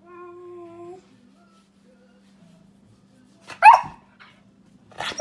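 A pet dog gives a held whine for about a second, then barks loudly twice: once about three and a half seconds in and again at the very end.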